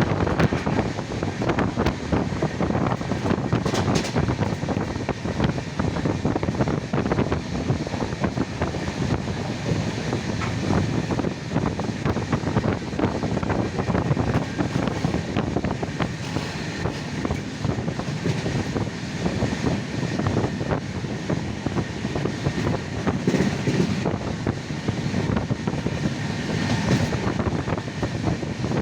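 Steady rumbling and rattling of a moving vehicle, running without a break.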